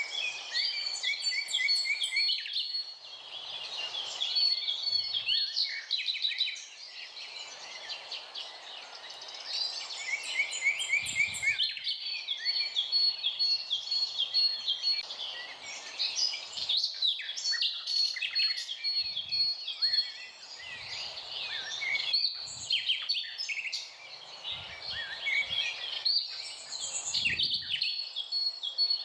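Several birds singing and calling at once: a dense chorus of overlapping chirps, trills and quick repeated notes over a faint outdoor hiss.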